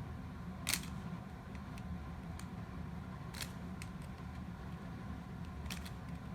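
Three sharp clicks of a hand tool on small plastic parts as a toy robot's gear train is worked apart, with a few fainter ticks between, over a steady low hum.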